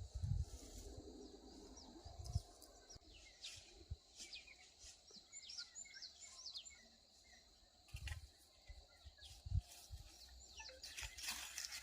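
Small birds calling with many short, high chirps that sweep downward, repeated in quick runs. A few low thumps break in, and a rustling noise starts near the end.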